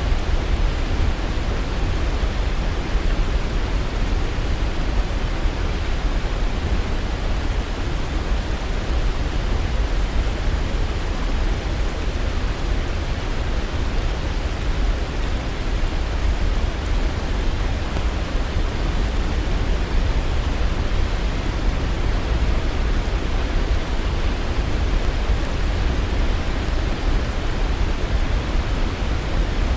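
Waterfall: a steady, unbroken rush of falling water, heavy in the deep low end.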